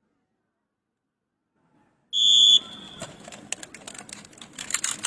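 Near silence, then about two seconds in a sudden loud, high-pitched steady tone lasting about half a second, followed by open-air background noise with scattered sharp clicks and knocks.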